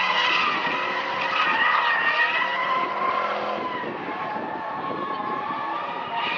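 A drifting car's engine running at high revs while its tyres squeal steadily in a slide, the squeal holding a steady high pitch as the engine note shifts underneath.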